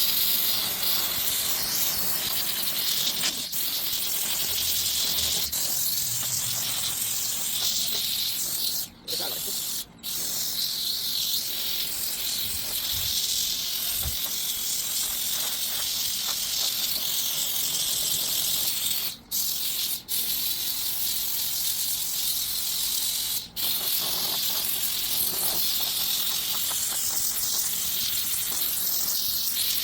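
Steam cleaner jetting steam in a steady, loud hiss that cuts off briefly about five times and then resumes.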